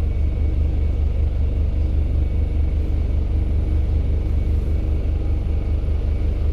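Steady low rumble of a road vehicle running, with a regular low throb.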